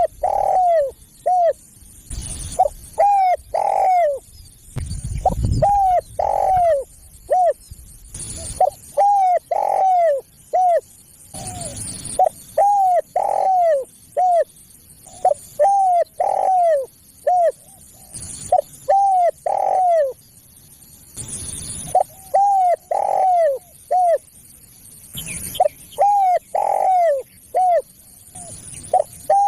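Spotted dove cooing: phrases of several short coos that fall in pitch, repeated about every three seconds. It is the bird's advertising call, played here as a lure for wild doves.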